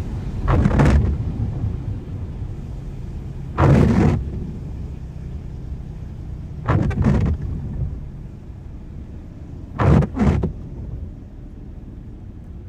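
Car driving in rain with a steady low road rumble, as the windscreen wipers sweep across the glass about every three seconds, once as a quick double swish.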